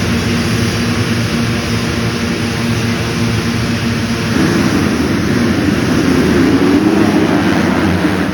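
Motocross bike engines running hard at high revs, rising in pitch and getting louder about four seconds in.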